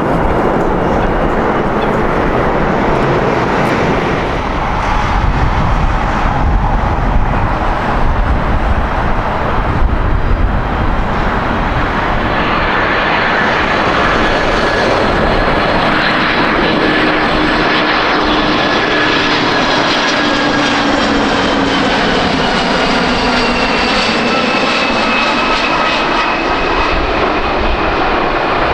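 Jet airliner engines passing close by: a loud, steady rushing noise, with a high whine and lower tones that slowly drop in pitch through the second half.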